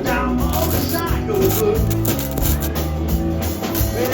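Live blues band playing a song with drums and other instruments.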